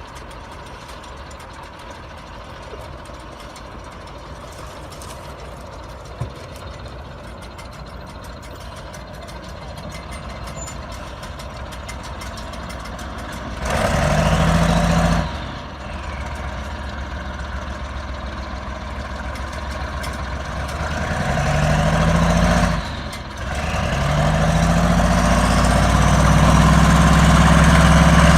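Heavy truck engine running low, then revved hard three times about halfway through and near the end, each time climbing in pitch, the last rev held longest and loudest.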